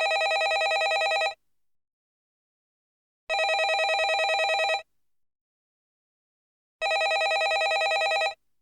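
Landline telephone ringing: three rings of about a second and a half each, each a rapid trill, with about two seconds of silence between them.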